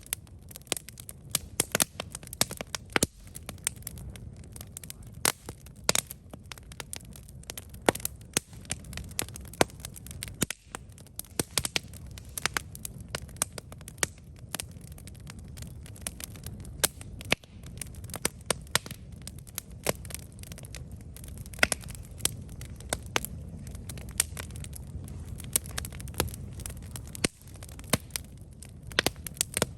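Campfire burning, wood crackling and popping in sharp, irregular snaps over a low steady rumble of the flames.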